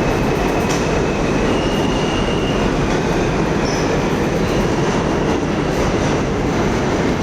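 New York subway train running through the station with a loud, steady rumble of wheels on rail, with brief faint high squeals from the wheels.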